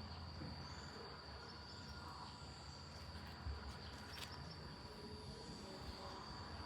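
Faint, steady high-pitched insect chirring over a low hum, with a couple of light knocks.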